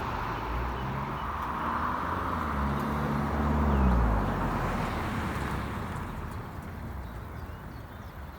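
Ferrari 360 Spyder's V8 engine running on the road, its pitch rising a little and then easing off. It fades out about four seconds in, leaving a fading hiss of wind and road noise.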